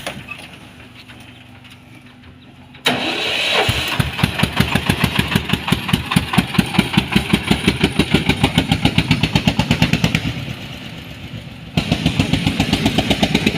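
A vehicle engine falls to a low rumble, then about three seconds in starts abruptly and runs with a rapid, even chugging. Near the end it drops briefly, then picks up again at the same pace.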